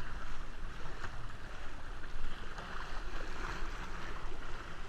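Water splashing and sloshing around a kayak as it is paddled, an even wash of noise with a low rumble underneath.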